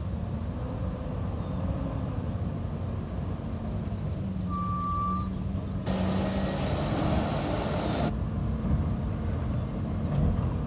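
Garbage truck engine running steadily, with one short beep about four and a half seconds in and a hiss of air lasting about two seconds from around six seconds in.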